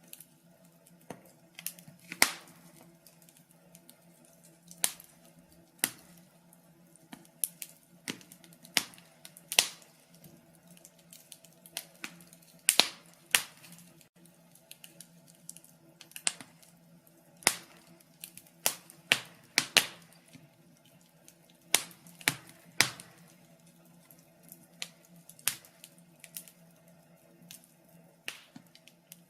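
Wood fire crackling in a fireplace: irregular sharp pops and snaps, a few of them much louder, over a faint steady low hum.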